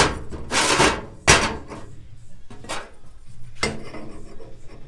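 Stainless steel exhaust pipe pieces and flanges being handled and fitted against each other: a knock, a short scraping rub, then a sharp knock about a second and a half in, with lighter knocks later.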